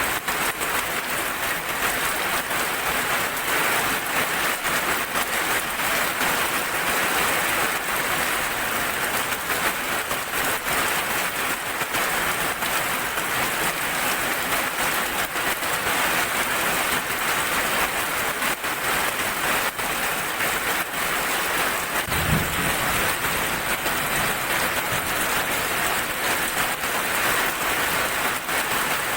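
Heavy rain falling steadily, an even hiss. About two-thirds of the way through, a brief low rumble of thunder.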